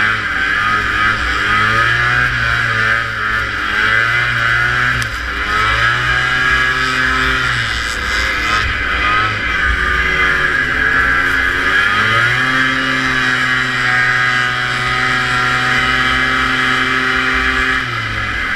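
Two-stroke vintage racing snowmobile engine running hard, its revs dipping and climbing back several times, then held steady before easing off near the end. Heavy wind and track noise run under the engine.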